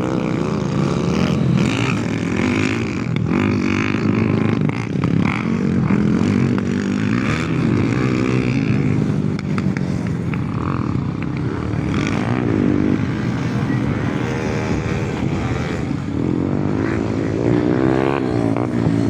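Motocross bike engines running hard, several at once, their pitch rising and falling as the riders open and close the throttle.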